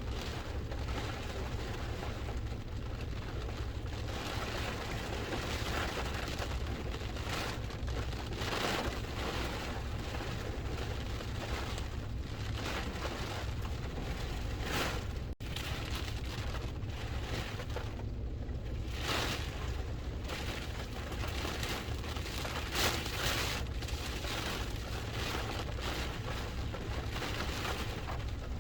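Hurricane wind and rain: a steady rush of rain with gusts swelling and fading, and the wind buffeting the microphone into a low rumble. The sound drops out for an instant about halfway through.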